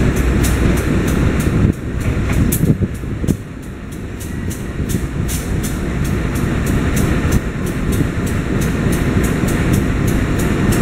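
Passenger train rolling through the station: a steady low rumble of wheels on rails, with even clicks about three times a second as the wheels cross rail joints.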